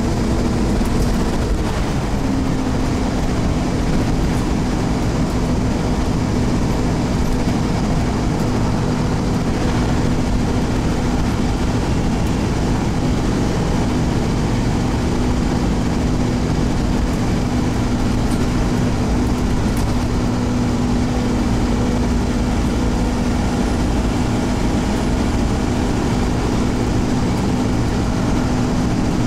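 Scania CN270UB OmniCity single-deck bus heard from inside the saloon, its engine and drivetrain running under way with a steady low drone and road noise. The drone's pitch steps up slightly about two seconds in and then holds.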